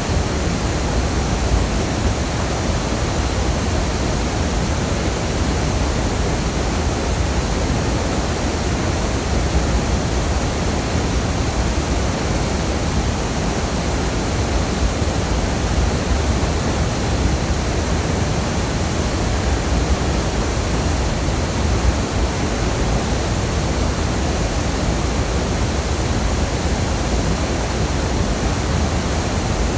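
Waterfall: a steady, loud rush of falling water, unbroken throughout, heaviest in the low rumble.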